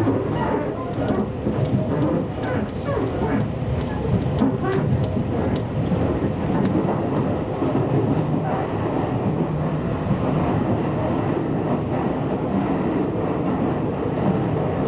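Seibu Railway train running along the track: a steady rumble of wheels on rail, with scattered sharp clicks.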